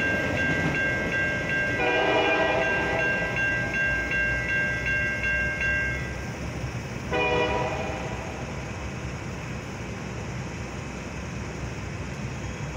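Metra commuter train passing a railroad grade crossing. The crossing's electronic bell rings rapidly, about three strokes a second, and stops about six seconds in. The train horn sounds twice, about two seconds in and again near seven seconds, over the rumble of the train, which fades after about eight seconds.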